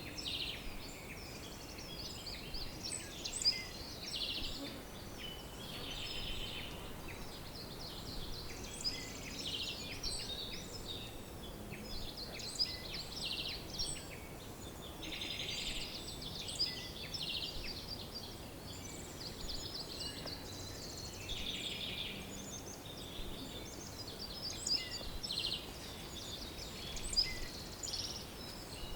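Several songbirds singing and calling over one another in a continuous chorus of short high chirps and rapid trills, over a faint steady background hiss.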